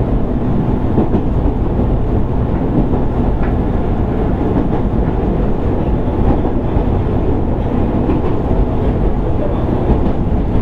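Running noise inside a JR East 205-600 series electric motor car under way: a steady rumble of the motor car's running gear and wheels on the rails, with a few faint clicks.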